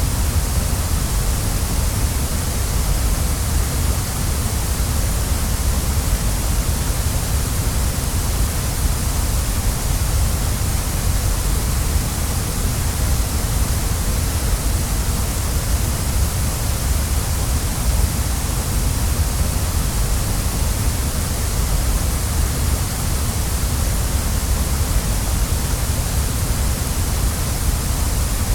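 Waterfall: water falling and rushing in a steady, unbroken wash of sound, with no changes or separate splashes.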